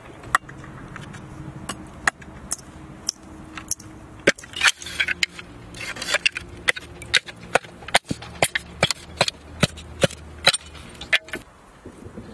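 Bamboo being chopped and split into strips with a knife: a run of sharp, irregular knocks and cracks, a couple each second.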